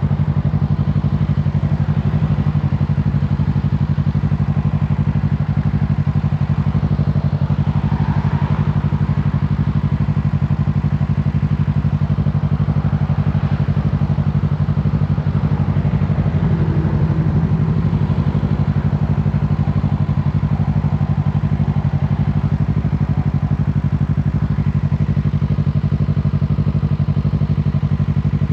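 Kawasaki Z650's parallel-twin engine running at a steady, even speed under way, with no big revs or gear changes.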